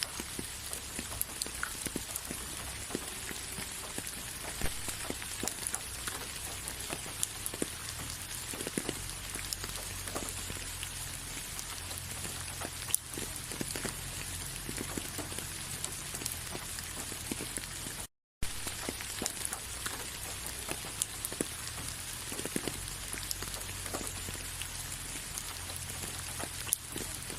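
Steady rain falling, with many individual drops clicking sharply on a surface. The sound cuts out completely for a split second about eighteen seconds in.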